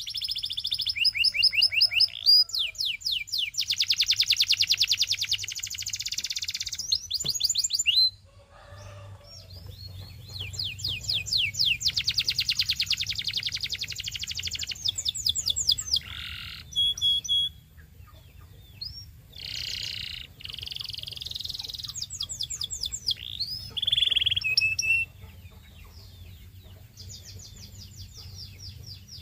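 Canary singing a long song of rapid trills and buzzing rolls, phrase after phrase with short pauses between, quieter in the last few seconds. A faint steady low hum runs underneath.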